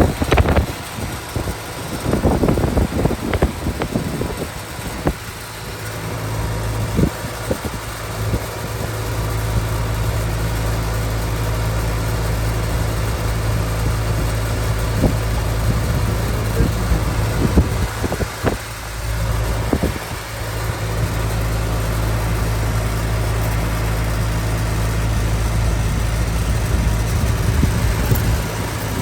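Air-conditioner outdoor condensing unit running with a steady low hum while refrigerant is charged into the system. Scattered knocks and clicks come in the first several seconds and again around the middle.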